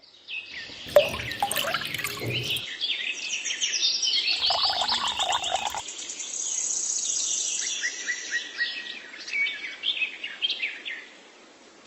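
Birds chirping and singing, many short high notes overlapping, with a fast high trill about six seconds in; a sharp knock about a second in.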